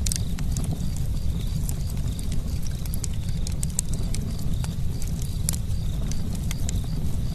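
Campfire crackling: frequent, irregular sharp pops and snaps of burning wood over a steady low rumble of the fire.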